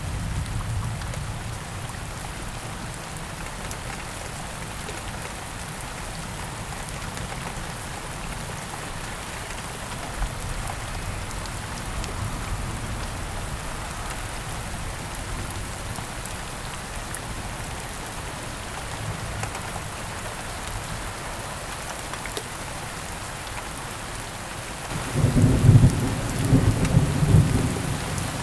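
Steady heavy rain falling on foliage in a rainforest, with low thunder rumbling in the background and a louder rolling peal of thunder near the end.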